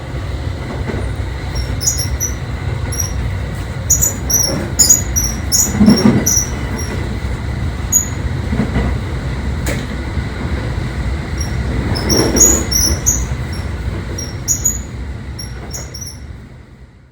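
Running noise of a JR 681 series electric train heard from inside the car: a steady low rumble of wheels on track, with scattered short high squeaks and ticks and a few dull thuds. It fades out near the end.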